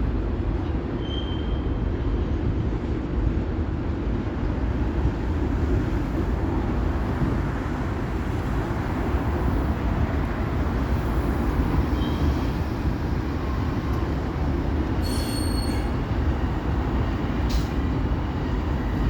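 Train running on the rails: a steady rumble with a few brief high-pitched wheel squeals, one about a second in, another around the middle, and more near the end.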